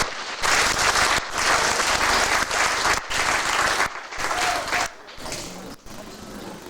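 Audience applauding, a dense burst of clapping that thins out and dies away over the last second or two.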